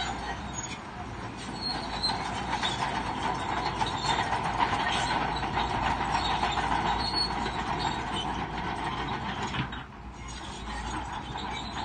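Crawler bulldozer working on its steel tracks, a continuous metallic squealing and rattling over the engine, dipping briefly near the end.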